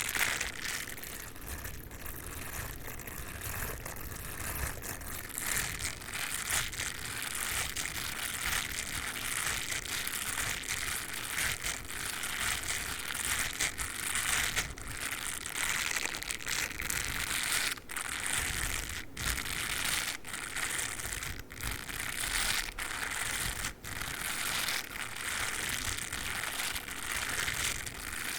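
Dog toothbrush rubbed and scratched against the microphone: a continuous crackly, crinkling scratching made of rapid strokes with brief breaks between them.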